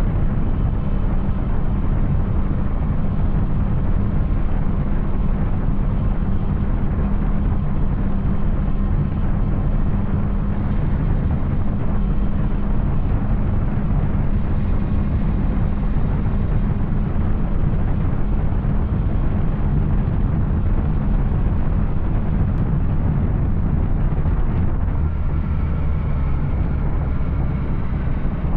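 Yamaha Tracer 900 motorcycle with an Arrow aftermarket exhaust, its three-cylinder engine running steadily under way. The engine note shifts near the end.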